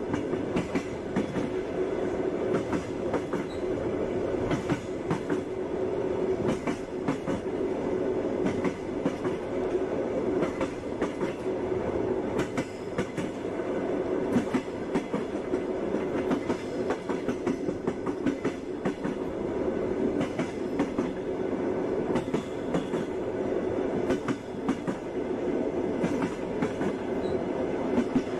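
Running train heard from inside a railway car: a steady rumble with the wheels clicking over rail joints again and again.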